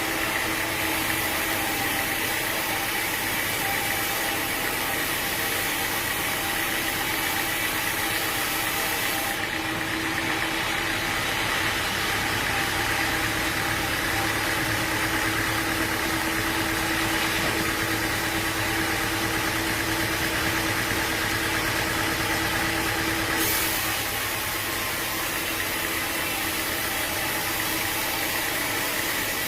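Sawmill machinery running steadily with a constant hum and whine. It grows a little louder and brighter from about nine seconds in, then settles back near the end.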